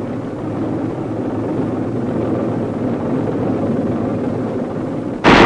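Steady low rumble of tanks on the move, heard on an old film soundtrack. Near the end it cuts suddenly to much louder machine-gun fire.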